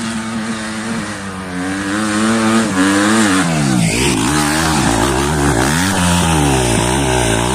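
Motorcycle engine running, holding a steady note for about two seconds and then revving up and down again and again.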